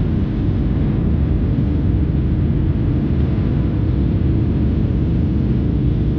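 Steady low rumble of a Boeing 737-700 heard from inside the passenger cabin: engine and airflow noise.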